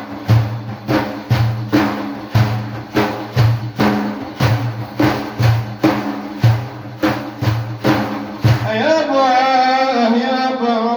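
Hand drums beat a steady rhythm of about two strokes a second, mixing deep thumps with sharp slaps. Near the end a man's voice comes in singing a long, wavering note over them.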